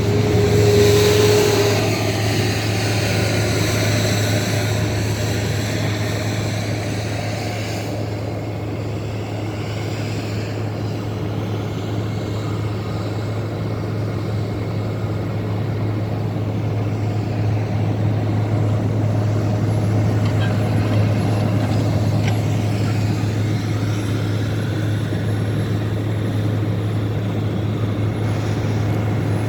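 Diesel engines of snow-removal machines, skid steers and a wheel loader pushing snow, running as a steady low drone. The tone sweeps and shifts during the first several seconds and again later as the machines move.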